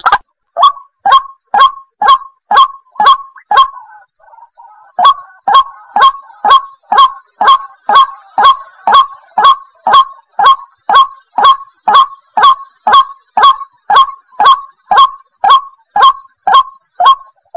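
White-breasted waterhen calling: a monotonous series of single sharp notes, about two a second, with a pause of about a second and a half near the start. A faint steady high hiss runs underneath.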